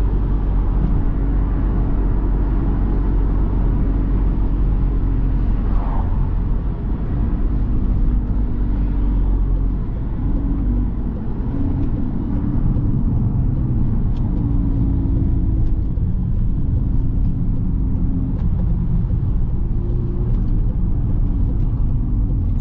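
Tuned Volkswagen Golf R's turbocharged four-cylinder engine and tyre rumble heard from inside the cabin while driving. A steady low rumble carries throughout, and in the second half the engine hum shifts up and down in pitch as the speed changes.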